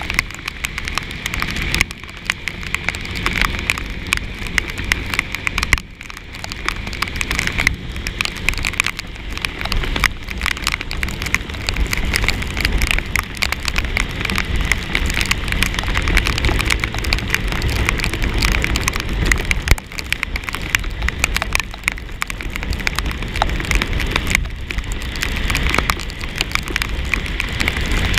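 Rain drops spattering rapidly and unevenly on the microphone of a scooter rider, over a continuous low rumble from riding in the rain.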